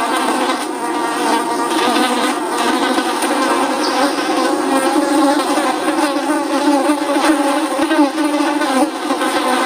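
Flies buzzing: a continuous drone of several wavering, overlapping buzzing tones that never stops.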